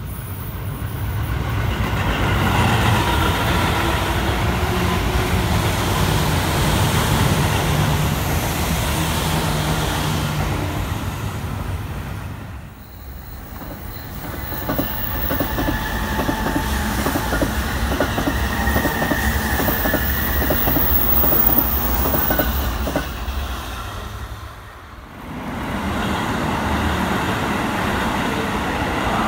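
Electric commuter trains running past in three clips, each ending in an abrupt cut. A passing train's rumble and hum comes first, then a train crossing a concrete viaduct with rapid wheel clatter over the rail joints, then a train running along a station platform.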